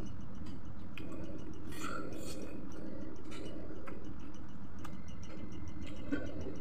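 A person chewing fried chicken close to the microphone, with occasional small clicks and smacks over a steady low background hum.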